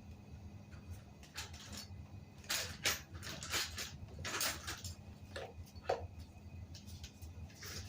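Irregular clinks and scraping noises of hard objects being handled, densest in the middle, over a low steady hum.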